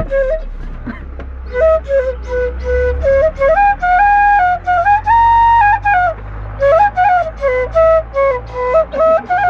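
A flute playing a simple melody in stepped notes, climbing to a long held high note midway and stepping back down, with a low steady hum underneath.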